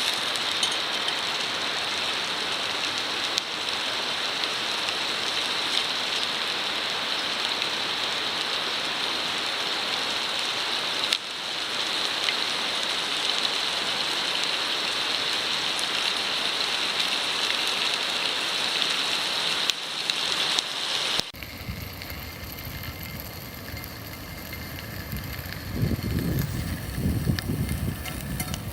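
Wood fire in a wire-frame fire pit, crackling densely like rain. About three-quarters of the way through it cuts to a quieter scene with a low rumble near the end.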